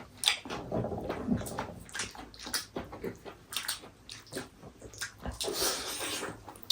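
Close eating sounds from a goat-meat soup meal: chewing and lip smacks, with a wet slurping stretch near the end.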